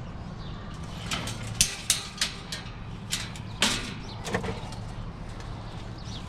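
A series of sharp knocks and clatters, most of them between about one and four and a half seconds in, over a steady low hum.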